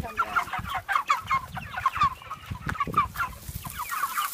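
A flock of chickens clucking, many short overlapping calls in quick succession, over a low rumble.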